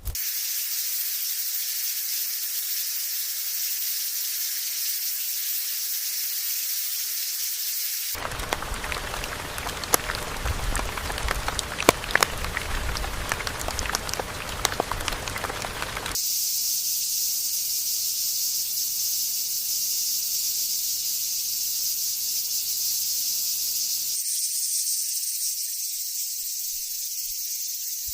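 Steady high hiss, broken in the middle by about eight seconds of fuller, deeper noise with scattered crackles. The hiss then returns and changes abruptly near the end, as at a splice.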